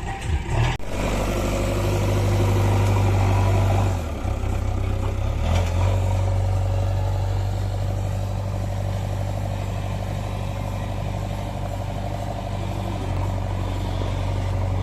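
Heavy-vehicle engine running steadily with a deep hum, its pitch and load shifting a few times in the first six seconds and then holding even.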